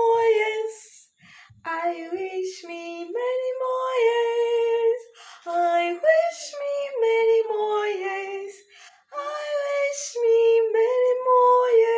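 A woman singing solo and unaccompanied, in short phrases with brief pauses between them, ending on a long held note.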